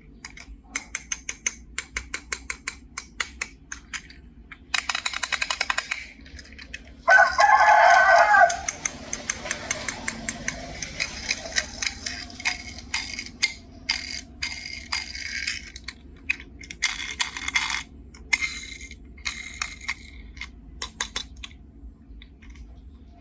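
Many quick clicks and rattles, like hard plastic being handled. About seven seconds in, a loud pitched call lasts about a second and a half.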